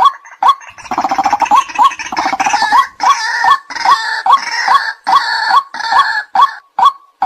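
White-breasted waterhen calling, a short "kwak" note repeated a little over twice a second. Between about one and three seconds in a rapid rattling chatter joins the calls, and after that the notes sound harsher and fuller.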